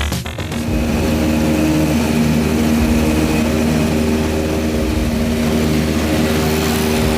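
Propeller aircraft's piston engine running steadily, a droning hum over an even rush of air noise.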